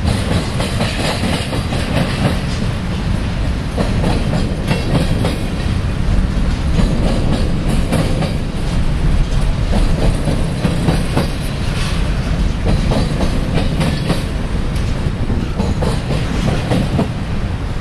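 Union Pacific double-stack container train's well cars rolling past at steady speed: a continuous low rumble with repeated clicks of the wheels passing over rail joints.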